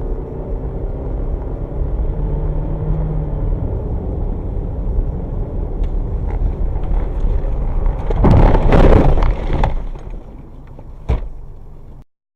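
Dashcam recording of a vehicle driving, with steady engine and road noise, then a loud crash about eight seconds in, lasting over a second: a road collision. A sharp single knock follows near the end before the sound cuts off.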